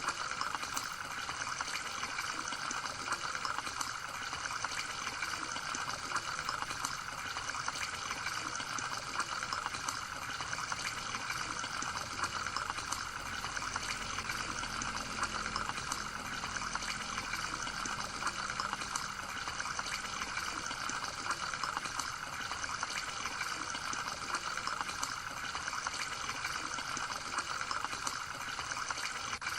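Steady trickle of running water, with a faint low hum joining briefly midway.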